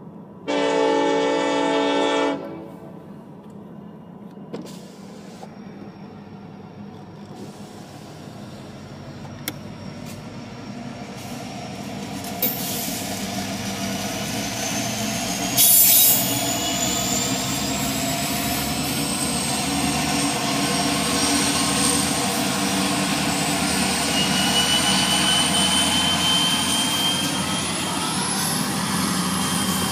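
Florida East Coast Railway freight train: the locomotive horn sounds one loud blast of about two seconds near the start. The locomotives and freight cars then roll past, wheels running on the rails with thin, high, slowly rising squeals. There is a brief loud hiss about halfway through.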